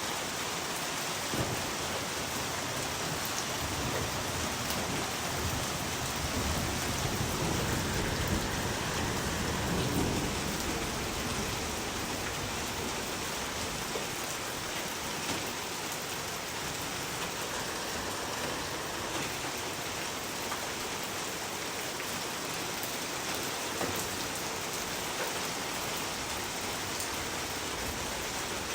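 Steady heavy rain falling on a surface, a dense even hiss with scattered drop ticks. A low rumble swells for a few seconds about a quarter of the way in, then fades.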